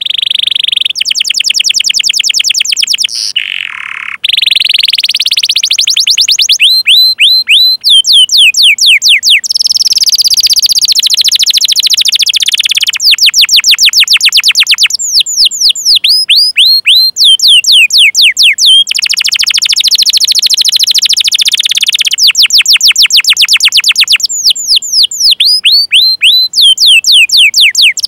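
Domestic canary singing a loud, continuous song: fast rolling trills alternating with runs of repeated down-slurred whistled notes, the phrase type changing every second or two.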